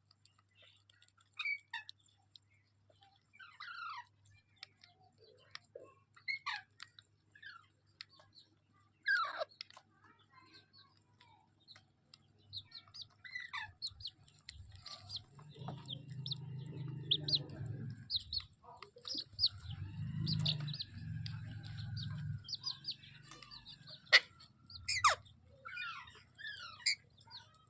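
Baby green parrot chirping: many short, sharp calls, often sliding down in pitch, repeated at irregular intervals. A low rumbling noise runs for several seconds around the middle, and a sharp click comes near the end.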